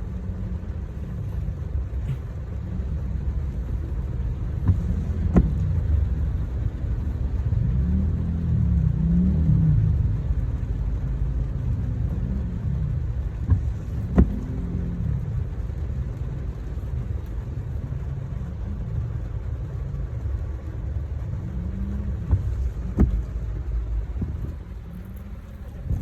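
Car engine and road rumble, the engine's pitch rising and falling several times as it speeds up and slows, with three sharp clicks spread through.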